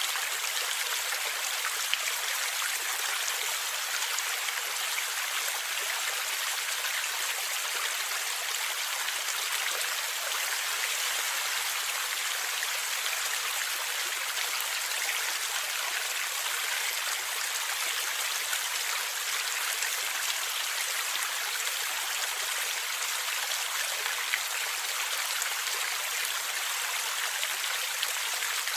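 River water flowing and gurgling steadily, an even, hissy rush with little low rumble, and a couple of brief sharp ticks.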